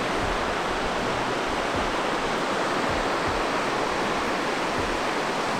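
Steady rushing of water, an even, unbroken noise with no rise or fall.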